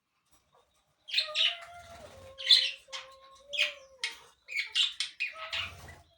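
Small pet birds chirping in short, sharp, irregular bursts, starting about a second in, over a faint steady wavering tone.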